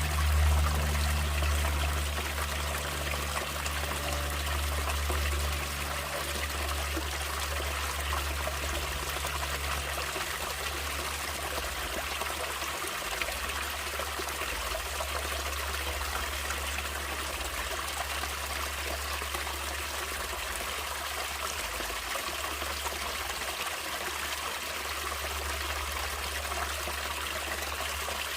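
Natural water running steadily in a stream, with a constant splashing hiss and a deep low rumble underneath that is strongest in the first dozen seconds and then eases.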